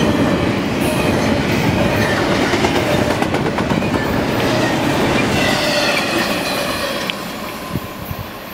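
Double-stack intermodal freight train rolling past: steady rumble and rattle of the loaded well cars with wheels clicking over the rail joints. The noise falls off near the end as the cars pass and move away.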